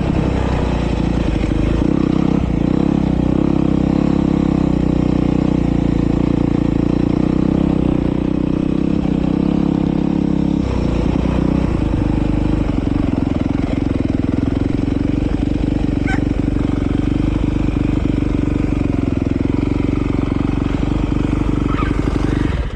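Motocross bike engine running close to the microphone at a fairly steady pitch, which shifts a little about halfway through; the sound cuts off suddenly at the end.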